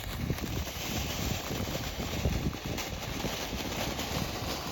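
A consumer firework fountain (the fountain stage of a 200-gram cake) burning: a steady spraying hiss with many small crackles running through it, and no loud aerial shot.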